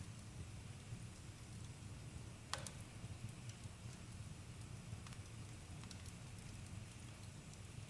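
Campfire crackling: a low steady rumble with scattered sharp pops, the loudest about two and a half seconds in.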